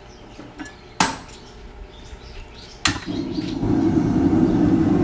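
Two sharp metal clanks of steel on steel at the forge, the second just under three seconds in. A loud, steady roar then sets in and holds.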